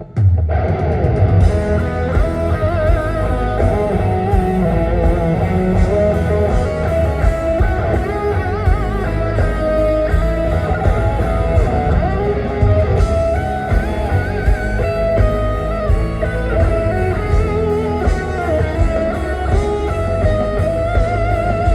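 Live rock band playing an instrumental break with no vocals: an electric guitar lead with wavering, bent notes over bass guitar and drums, starting right after a brief pause.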